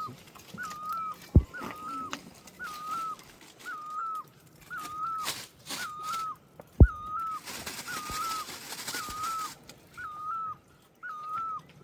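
A bird calling a short whistled note over and over, about once a second, at a steady pace. Two sharp knocks sound about a second and a half in and near seven seconds in, and a brief hiss comes up after the second knock.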